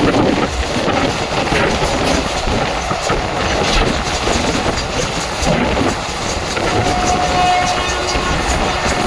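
ICF passenger coaches of an Indian express train rolling along the track, with a continuous rumble and clatter of wheels on rails. About seven seconds in, a brief steady tone sounds over it for roughly a second.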